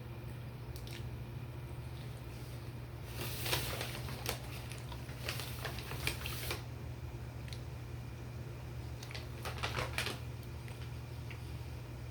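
Paper food packaging rustling and crackling with little clicks, in a longer spell from about three seconds in and a shorter one later, over a steady low hum.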